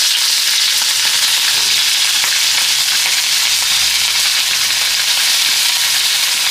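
Ground spice paste with shallots, garlic and instant seasoning sizzling as it is sautéed in hot oil, a steady frying hiss.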